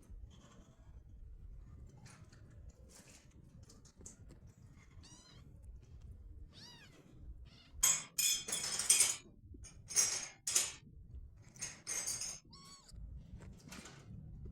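Kittens fighting. There are a few faint meows at first, then from about the middle a run of loud, short bursts of cat squeals and scuffling noise.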